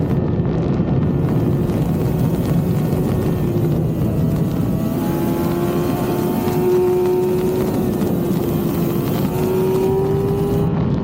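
Yamaha YZF-R6 inline-four engine running at a steady high note while riding, its pitch easing slightly down and back up.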